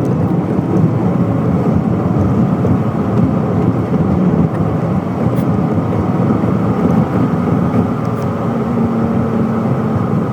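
Steady rumble of road and engine noise inside a car's cabin while driving, with a faint steady hum coming in near the end.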